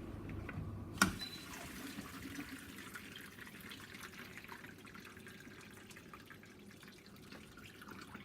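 Samsung dishwasher mid-cycle on Normal 50 °C: its low running hum stops with a sharp click about a second in. Water then trickles and drips inside the tub, slowly fading.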